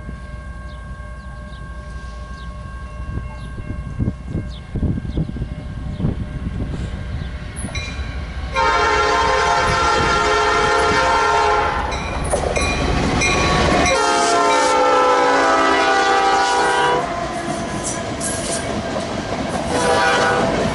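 Freight train approaching, its low rumble building, then the locomotive's air horn sounding a series of loud blasts from about eight seconds in: a long blast, a shorter one, another long one and a short one near the end, over the rumble and clatter of the passing train.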